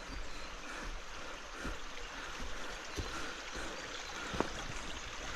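Steady rushing of a rain-swollen woodland river, with a few light knocks about two, three and four seconds in.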